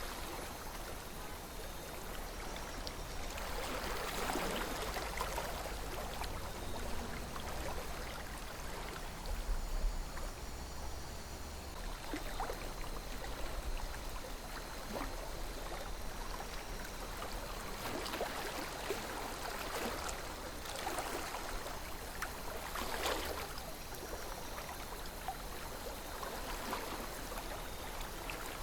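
River water flowing steadily, with louder gurgles and splashes every few seconds over a low rumble.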